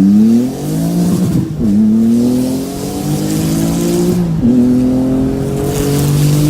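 Straight-piped 2001 Porsche 996 911 Turbo's twin-turbo flat-six accelerating, its pitch climbing through the revs. It drops back sharply at two upshifts, about a second and a half in and again past the four-second mark, and climbs again after each.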